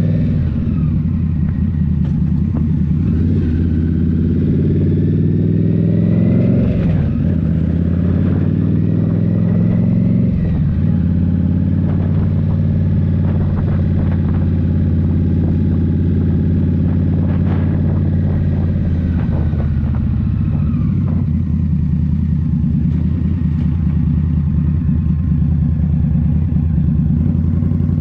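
Indian Scout Rogue's 69 cu-in V-twin running through a Rinehart slip-on exhaust while riding, its pitch rising and falling with the throttle and gear changes, dipping about seven, ten and twenty seconds in.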